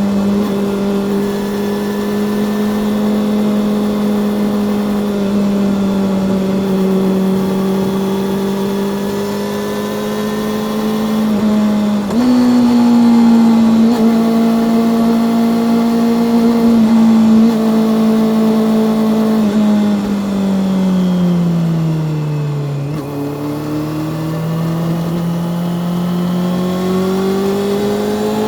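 Honda CB400 Super Four's inline-four engine and exhaust under way. It holds a steady pitch, steps up sharply about twelve seconds in, then falls as the bike slows and rises again as it accelerates near the end.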